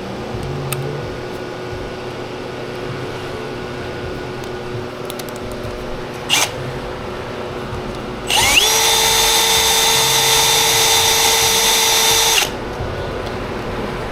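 An electric power drill spins up and runs with a steady high whine for about four seconds, then stops. A short sharp burst comes about two seconds before it.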